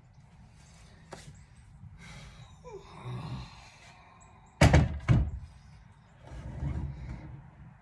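Two loud thumps about halfway through, half a second apart, among quieter knocking and shuffling.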